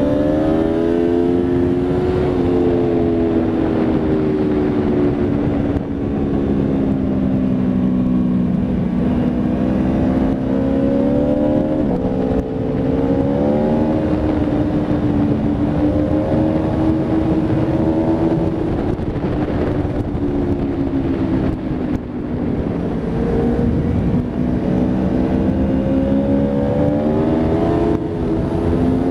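Aprilia Tuono V4 RR's V4 engine under way, its pitch repeatedly climbing as it accelerates and then stepping down or falling away with gear changes and braking.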